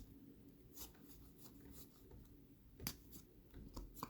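Faint scattered clicks and taps of trading cards being handled, the clearest about three seconds in.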